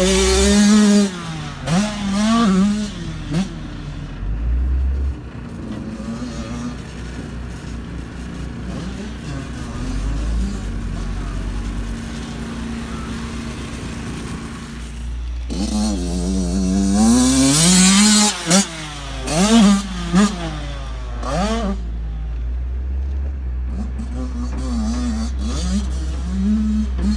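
Dirt bike engines revving up and down as the bikes ride the track, the pitch rising and falling through the gears. The engines run quieter and steadier for a stretch, then rev hard again about halfway through.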